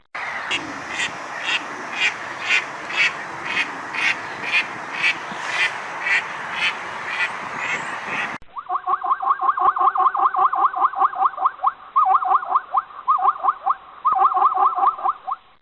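Animal calls from two spliced clips. For the first eight seconds, a call repeats about twice a second over a noisy background. After a sudden change, rapid pulsed calls come in quick bouts of several a second.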